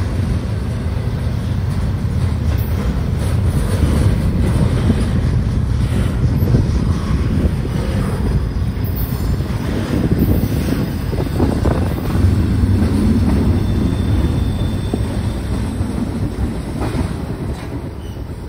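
Double-stack container cars of a Union Pacific intermodal freight train rolling past: a steady low rumble of steel wheels on rail with scattered clacks, fading over the last couple of seconds as the tail of the train moves away.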